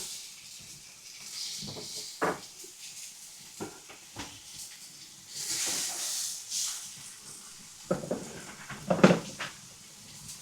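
Cooking at a fireplace: scattered knocks and clatter of pans and utensils, with a few seconds of hissing sizzle near the middle. The loudest run of knocks comes near the end.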